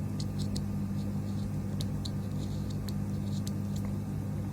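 A steady low electrical hum with light, scattered clicks and ticks of small tools or probes being handled on a circuit board.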